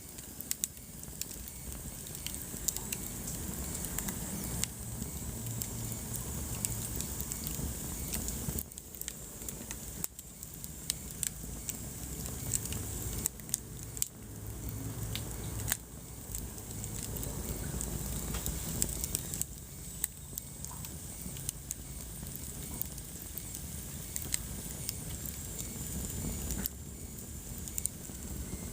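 Wood fire burning in a fireplace, with frequent, irregular sharp crackles and pops over a steady low rumble of the flames.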